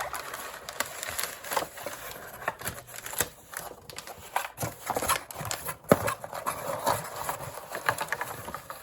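Hands handling a plastic cordless phone and its packaging: an irregular run of clicks, taps and rustling as the parts are moved about and unpacked.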